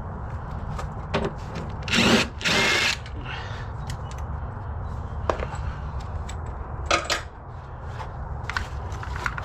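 A power tool run in two short bursts about two seconds in, over a steady low hum, with a few sharp tool clicks and knocks later on.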